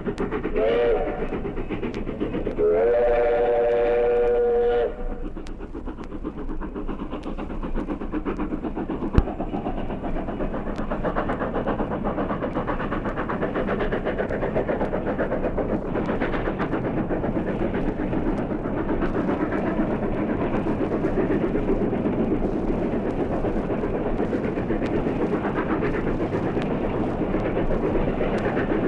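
Steam locomotive's chime whistle: a short toot, then a blast of about two seconds whose pitch slides up as it opens. After it, the locomotive and its train run by in a steady, fast-beating rumble of exhaust and wheels that grows slightly louder in the second half, with one sharp click about 9 s in.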